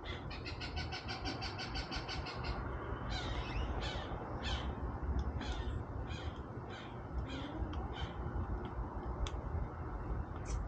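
Crows calling: a fast stuttering run of short calls in the first two seconds or so, then separate caws about twice a second.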